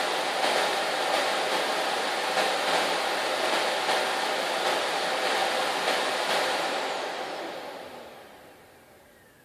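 Bosch Roxx'x bagless vacuum cleaner running with a steady rushing motor noise, then switching off about six and a half seconds in, its motor winding down with a falling whine until it is almost silent.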